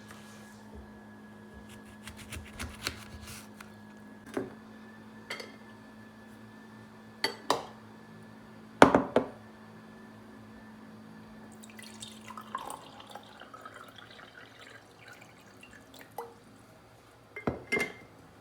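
Glassware and dishes clinking and knocking a dozen or so times, the loudest near the middle and near the end, over a low steady hum that stops about two-thirds of the way in.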